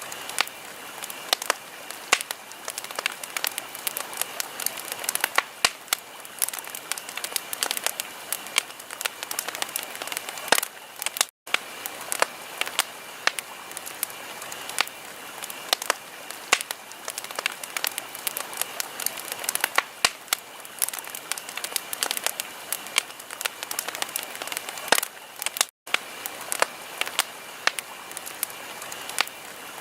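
Fireplace fire crackling: a dense, irregular stream of sharp pops and snaps over a soft hiss, broken by two very brief dropouts to silence, about a third of the way in and again near the end.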